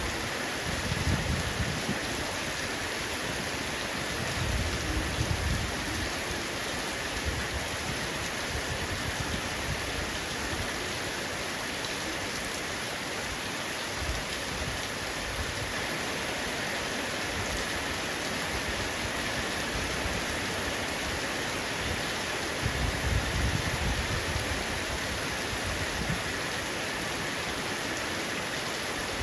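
Heavy rain falling steadily on a roof, a dense even patter. Three brief low rumbles stand out beneath it: about a second in, around five seconds in, and again near the end.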